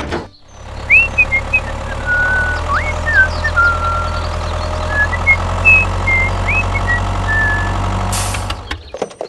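Tractor engine idling steadily, a low even drone that fades out near the end, with short bird-like chirps and whistles over it.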